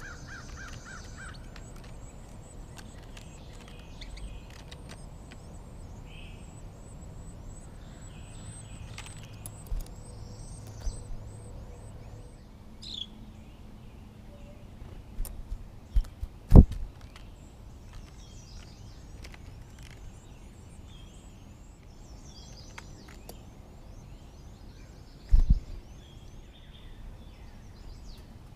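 Small birds chirping and twittering in quick high calls over a steady background hiss, broken by a few sharp thumps, the loudest about two-thirds of the way through.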